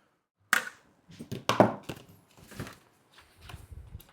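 Plastic wrapping being pulled off an air purifier's HEPA filter: a series of irregular crinkles and knocks from handling, with a sharp one about half a second in and a cluster of them near the end.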